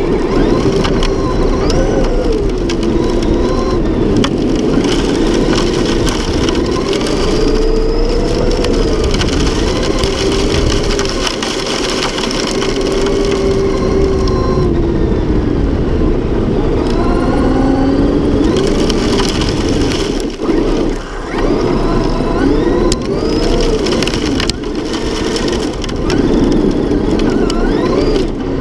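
Traxxas X-Maxx RC monster truck's brushless electric motor whining, its pitch rising and falling with the throttle, over steady noise from the tyres on dirt.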